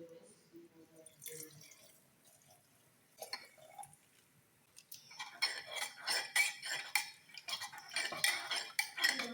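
Dishes and utensils clinking and clattering as they are handled: a few separate clicks at first, then a dense run of clinks from about halfway through.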